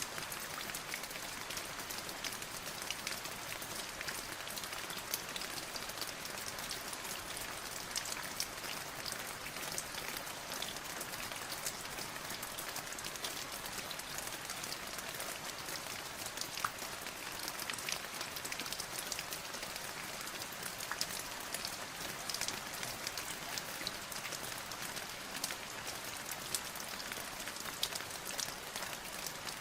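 Steady rain falling, a dense even hiss with many individual drops clicking sharply throughout.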